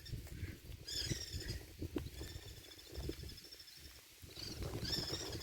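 A bird calling outdoors: short high calls about a second in and again near the end, over faint low rustling and knocks.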